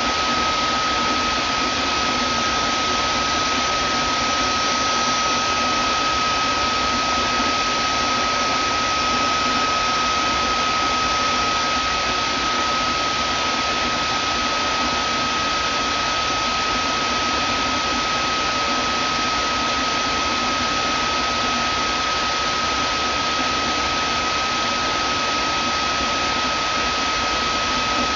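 Vacuum cleaner motor running steadily, a constant rushing hiss with a high whine held on one pitch.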